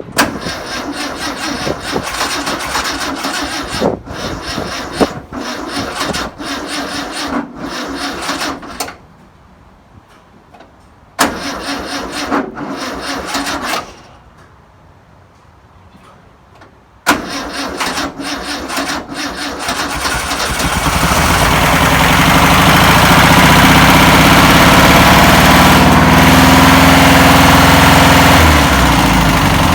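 1962 Volkswagen Type 2's air-cooled flat-four engine, long dormant, cranked by the starter in three attempts with pauses between. It catches about twenty seconds in and keeps running steadily, louder than the cranking.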